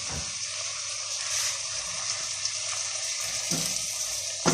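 Potatoes, carrot and onion frying in oil in a stainless steel pot, a steady sizzling hiss. Near the end, a spatula knocks against the pot as they are stirred.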